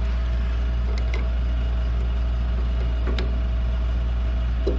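A steady low hum, with a few faint clicks of hand-tool work as the brake line is taken off a motorcycle's front brake caliper.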